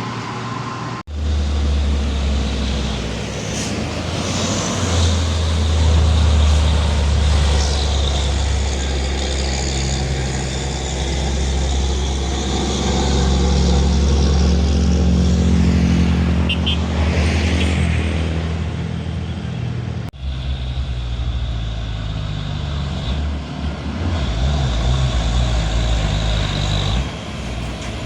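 Heavy truck engine running with a steady low drone, cut off abruptly twice, about a second in and about twenty seconds in.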